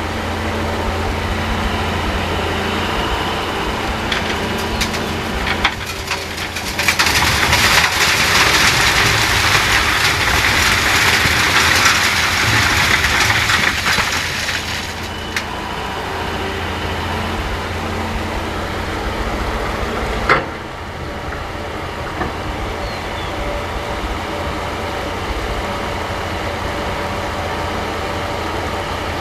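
Heavy diesel machinery running steadily, an excavator loading a dump truck. In the middle comes a loud rushing hiss lasting about eight seconds, sand pouring from the bucket into the truck bed, and a single sharp knock follows later.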